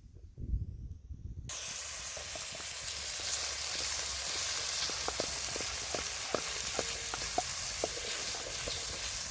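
Onions sizzling in hot oil in a blackened pot over a wood fire. A steady hiss starts suddenly about a second and a half in, after a few low knocks, with small pops and crackles through the middle.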